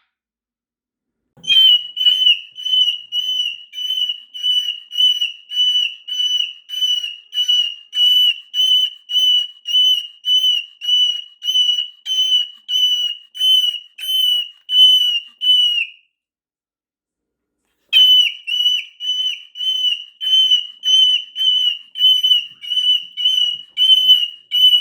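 A high, steady-pitched beep repeated about twice a second, very evenly, with each beep dipping slightly at its end. It stops for about two seconds partway through, then resumes.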